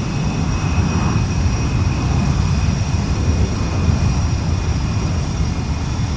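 Airplane flying overhead: a steady, low rumble of its engines.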